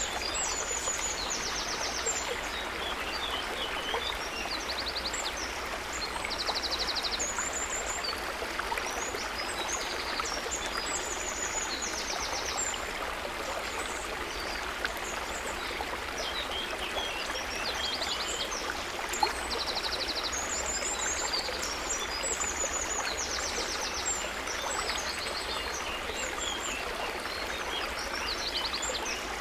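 River water running steadily over stones, an even rushing babble, with small birds chirping and trilling high above it throughout.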